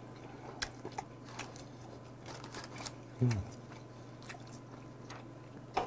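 Faint chewing of a mouthful of dried, spicy shredded squid, with scattered small clicks and crunches. About three seconds in, a short falling 'mm' from the eater. A steady low hum runs underneath.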